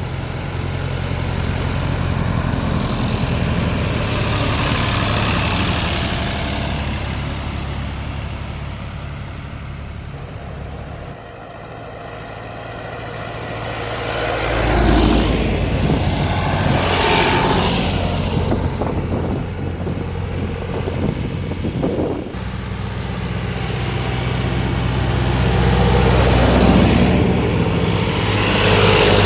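Engines of classic Massey Ferguson 165 and 135 tractors running steadily on the road, with a louder, rushing stretch around the middle as they draw near and pass. The sound changes abruptly about eleven and twenty-two seconds in.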